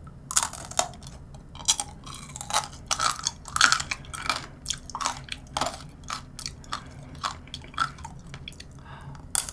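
Biting and chewing candied blueberries from a tanghulu skewer. The hard sugar coating cracks in many irregular crunches.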